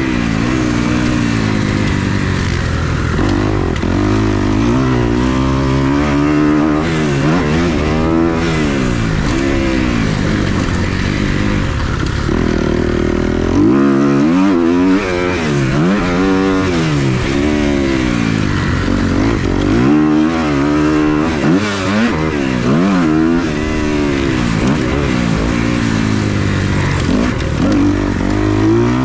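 Motocross dirt bike engine at race pace through a lap, its pitch climbing and dropping again and again as the throttle is opened and closed.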